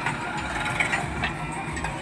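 Heavy diesel machinery running steadily, with a few short metallic clanks.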